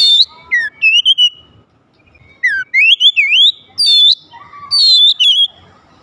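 Oriental magpie-robin (kacer) singing: loud, varied whistled phrases with quick rising and falling glides, broken by short pauses.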